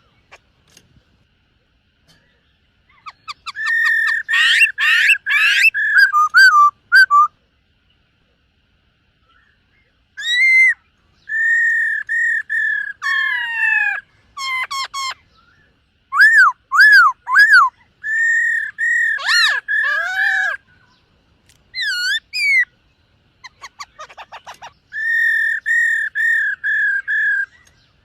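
Black-throated laughingthrush (khướu bạc má) singing: loud clear whistled phrases of repeated rising-and-falling notes and slurred runs, in bouts separated by pauses of a few seconds.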